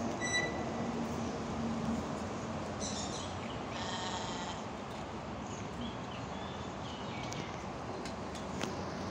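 Outdoor farmyard ambience: a steady hiss with a few short high-pitched animal calls, the longest about four seconds in.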